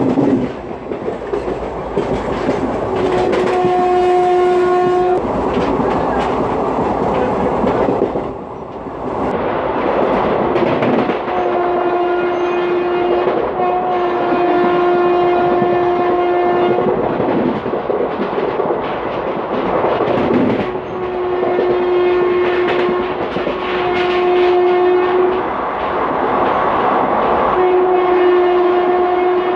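Express train of ICF coaches running at about 110 km/h: steady rumble and clatter of wheels on track, heard from an open coach doorway. Over it a locomotive horn sounds about six times, in blasts of one to three seconds, two of them nearly back to back.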